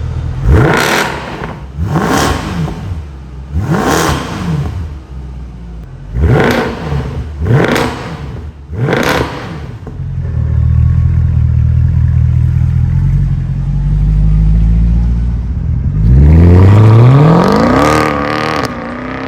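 Mercedes C63 AMG V8 through an aftermarket TNEER catback exhaust with valved mufflers, blipped in six quick revs. It then runs steadily and loudly for several seconds, and near the end gives one long rev that climbs, holds and then drops.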